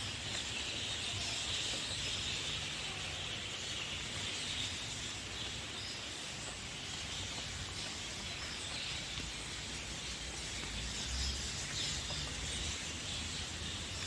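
Steady natural outdoor ambience: a constant high hiss with birds calling now and then.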